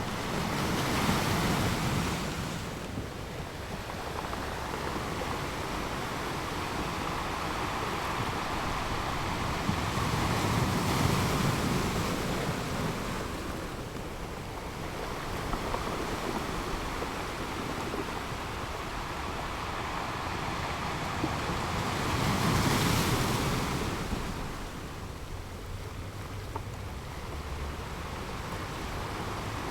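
North Sea surf breaking on a sandy beach: a steady wash of waves, with three louder breakers swelling and dying away about a second in, around eleven seconds in and near twenty-three seconds in. Wind buffets the microphone at times.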